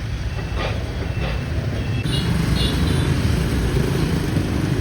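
Steady street traffic rumble with the hiss of heavy rain; the traffic gets louder about two seconds in.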